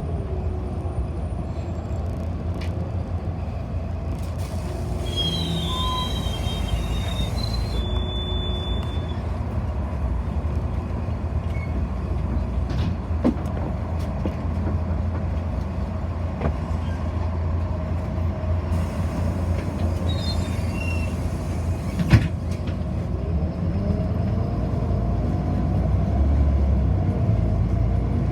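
City bus in motion, heard from inside the passenger cabin: a steady low rumble of engine and road noise, with two sharp knocks, one about halfway through and one about three quarters of the way, and faint high squeaks early on. Near the end a whine rises and falls.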